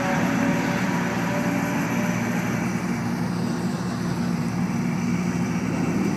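Several sports car engines running, a steady low drone.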